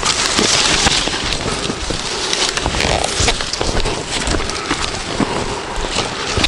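Loud, steady rushing water, strongest in the first second or so, with frequent low knocks mixed in.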